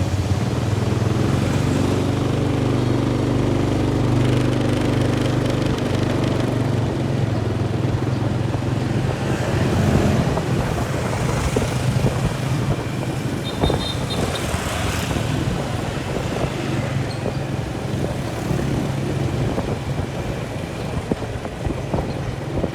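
Motor vehicle engine running with a steady low drone, amid road traffic noise.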